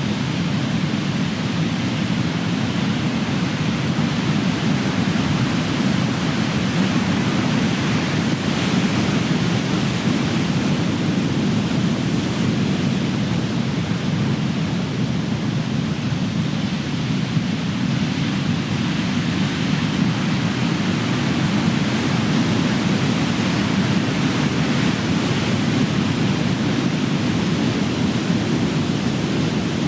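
Ocean surf: big waves crashing and rolling in, a loud, continuous rumbling wash that swells and eases slightly without distinct breaks.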